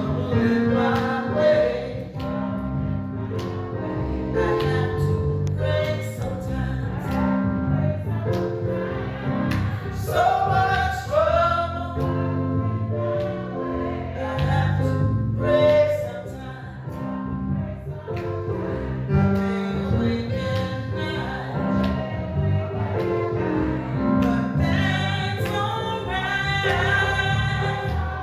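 Gospel music: several voices singing over instrumental accompaniment with steady bass notes.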